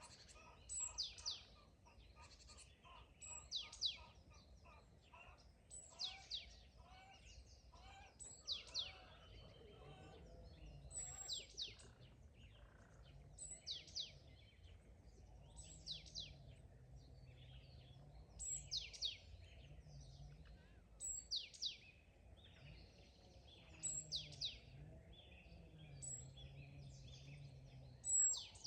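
Songbirds singing in the open: one bird repeats a short, high, falling song phrase about every two and a half seconds, over fainter chirps from other birds. Quick ticking calls run through the first several seconds.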